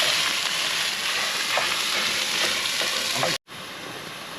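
Food sizzling in hot oil in a cast iron pot: a steady frying sizzle with a few light clicks. It cuts off abruptly about three and a half seconds in, leaving a quieter steady hiss.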